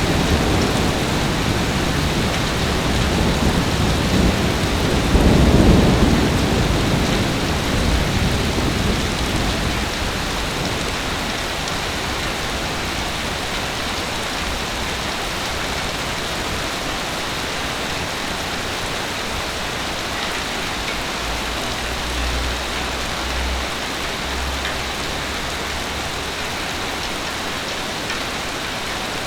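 Heavy rain falling steadily. About five seconds in, a low rumble of thunder swells and then fades away over the next few seconds.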